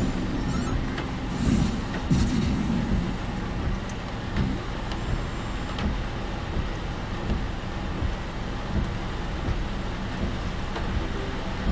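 A car driving in typhoon rain and wind, heard from inside the cabin: a steady rush of road and rain noise over a low rumble, with small swells in loudness.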